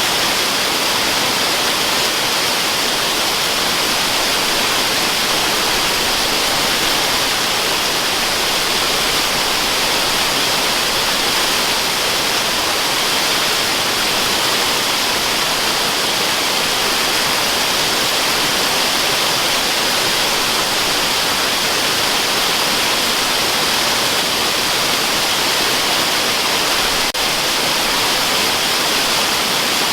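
Waterfall sound used as white noise: a steady, unbroken rush of falling water that is bright and hissy, with little low rumble.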